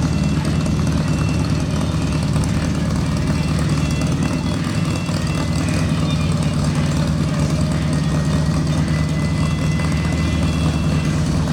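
Vehicle engine idling steadily, with an even low hum that holds one pitch throughout.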